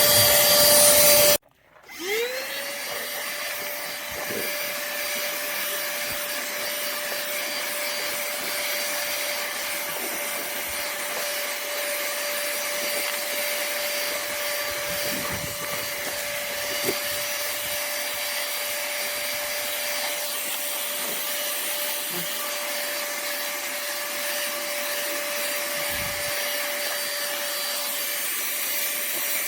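A pemacom cordless handheld vacuum cleaner runs with a steady high whine and a rush of air. About a second in it cuts out briefly, then its motor spins up again and holds steady, with a few faint knocks.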